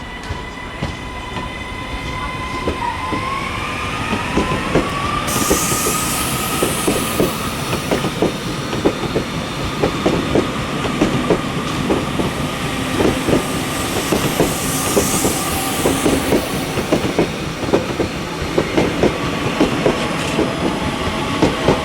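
Northern Class 331 electric multiple unit pulling out. Its traction motor whine rises in pitch a few seconds in, then its wheels click steadily over rail joints and pointwork as the carriages pass, growing louder.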